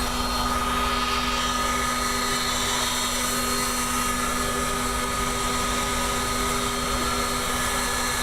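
Electric heat guns running steadily, a motor whine over a blowing hiss, melting the ice off a walk-in freezer's evaporator.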